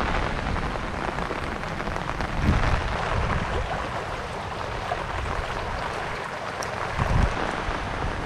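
Heavy rain falling steadily, with gusts of wind rumbling on the microphone about two and a half seconds in and again near the end.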